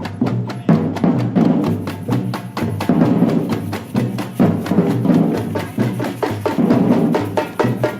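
Batucada percussion group playing: drums and hand percussion striking a dense, steady rhythm of several strokes a second, with low drum beats underneath.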